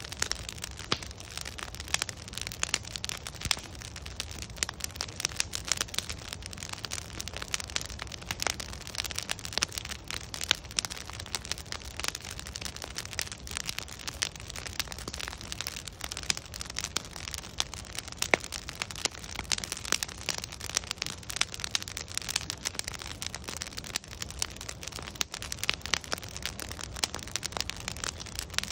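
Wood bonfire crackling steadily: many sharp pops and snaps from the burning logs, at irregular intervals, over a low steady rumble of the flames.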